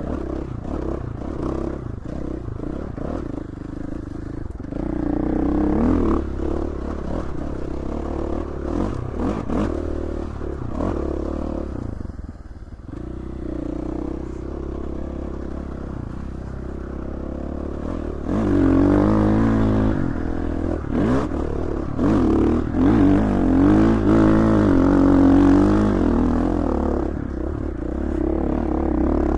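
Dirt bike engine running under load, its revs rising and falling with the throttle, louder and busier in the second half, with scattered knocks and clatter.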